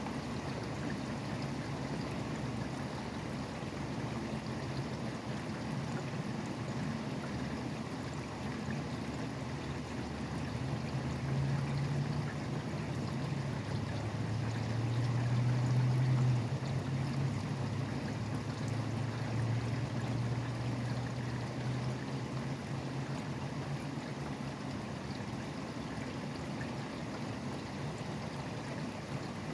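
Steady rain falling, an even hiss without breaks, beside highway traffic. A low rumble from a passing vehicle swells through the middle and is loudest about halfway through, then fades.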